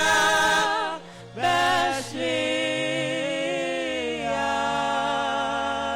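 Gospel song sung by a group of voices over instrumental accompaniment. The singing breaks briefly about a second in, then holds one long note through the second half.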